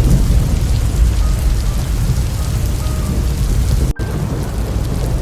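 Thunderstorm: heavy rain with a deep, continuous low rumble. The sound drops out for an instant about four seconds in, then carries on the same.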